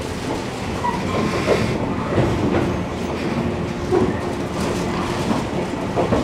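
Cabin running sound of a JR Kyushu 415 series 500-subseries electric multiple unit: a steady rumble with wheels knocking over rail joints, as the train slows into a station. A steady hum holds for a couple of seconds in the middle.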